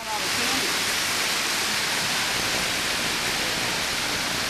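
Steady, even rushing noise at a constant level, with faint voices in the background in the first second.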